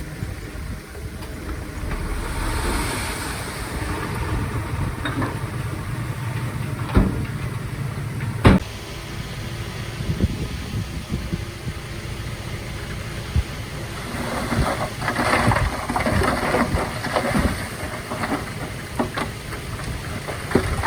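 Komatsu D51PX crawler bulldozer's diesel engine running steadily, with two sharp knocks about seven and eight and a half seconds in. A burst of rattling comes about two thirds of the way through.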